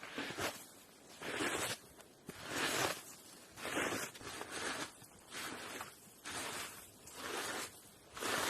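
Rhythmic scraping or crunching strokes, about one a second, each lasting about half a second.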